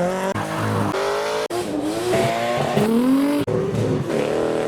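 Modified cars revving and accelerating hard one after another, engine pitch climbing and dropping, with the sound cutting abruptly from one car to the next a couple of times.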